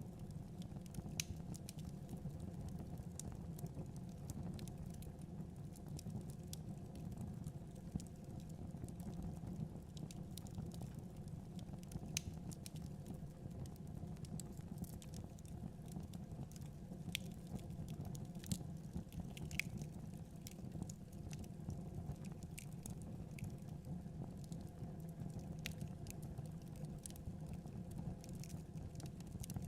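Wood fire burning in a fireplace: a steady low rumble of the flames with frequent small crackles and snaps scattered irregularly throughout.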